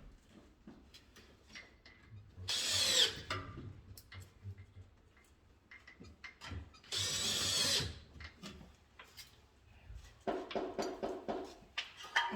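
Cordless drill-driver run in two short bursts, about three and seven seconds in, as when driving screws into a mounting board. Small clicks and knocks of handling parts lie between the bursts.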